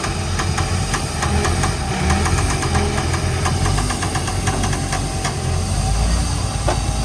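Heavy diesel vehicle engine running steadily with a deep rumble, overlaid by a fast, irregular clatter of sharp clicks that stops about five seconds in.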